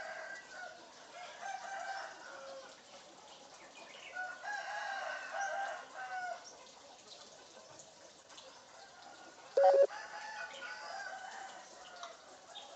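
African grey parrot calling in a string of pitched, crowing and clucking calls like a rooster or hen. The longest call runs about two seconds, near the middle. A short, much louder sharp call comes near the end.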